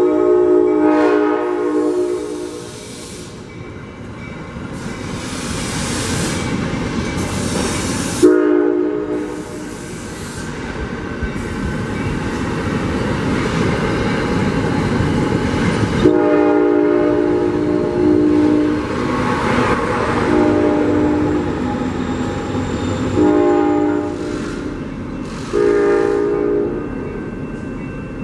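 Amtrak passenger train locomotive sounding its multi-note air horn in a series of separate blasts, one of them short, over the loud rumble and rail noise of the moving train.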